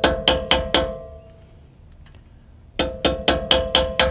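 Hammer striking metal in steady blows, about four a second, each with a short metallic ring. One run stops about a second in and another starts near the end. This is typical of tapping out a brake caliper's pad retaining pin.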